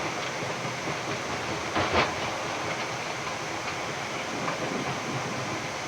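Flight-deck noise of a Boeing 787-10 decelerating on its landing rollout with the thrust reversers deployed: a steady rush and rumble, with a brief louder clatter about two seconds in.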